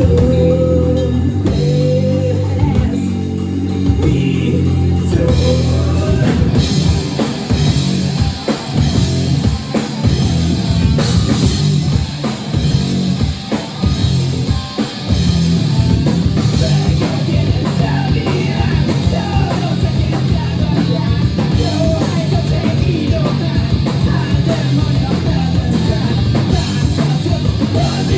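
Live rock band playing: distorted electric guitars, bass and drum kit, with a few short melodic lines early on before the full band comes in harder about six seconds in.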